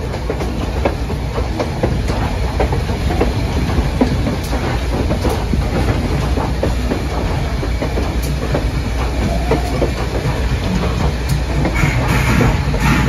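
Train rolling along the track: a steady low rumble with the irregular clickety-clack of wheels on the rails.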